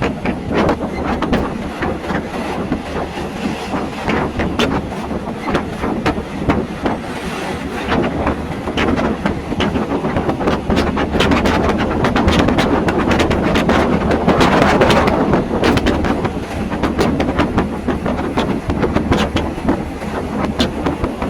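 Train running along the track, wheels clattering over the rail joints with many sharp clicks over a steady rumble.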